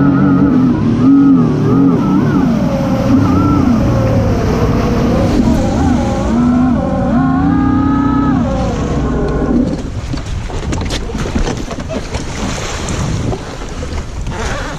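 Sea-Doo jet ski engine running under way, its pitch rising and falling with the throttle. About ten seconds in the engine note drops away, leaving a rougher rush of water and wind with scattered knocks.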